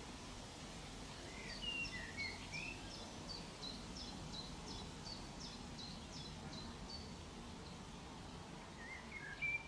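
Faint outdoor birdsong: a small bird repeats a short high note about three times a second for several seconds, with a few lower chirps from another bird near the start and again near the end.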